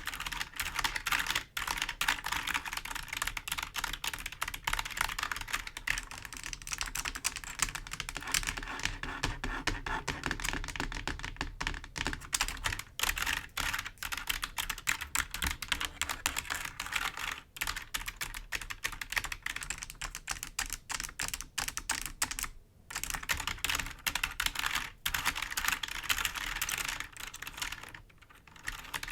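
Fingers tapping and scratching on a computer keyboard: a dense, rapid run of clicky key sounds, with two short pauses, one about three-quarters of the way through and one near the end.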